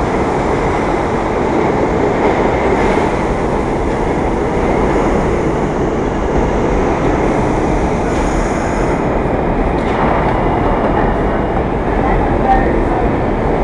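New York City subway train running through the station: a steady loud rumble of steel wheels on rail, with faint high-pitched wheel squeal partway through.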